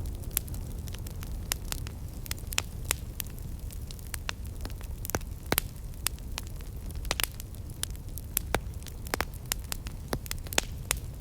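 Wood campfire crackling: burning wood snapping and popping in many sharp, irregular clicks over a steady low rumble.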